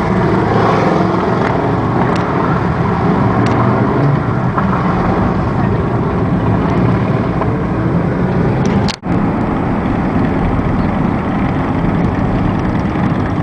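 Motorcycle engine running steadily under way, mixed with heavy wind and road noise, with a sudden momentary drop-out of the sound about nine seconds in.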